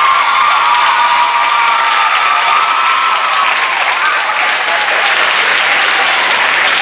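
Hall audience applauding, with high-pitched held cheers over the clapping for the first few seconds that fade out about halfway through.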